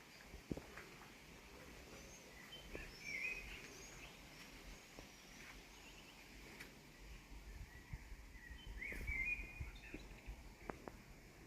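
Birds chirping and singing faintly, with a flurry of chirps about three seconds in and another near nine seconds, over a quiet outdoor background with a few faint clicks.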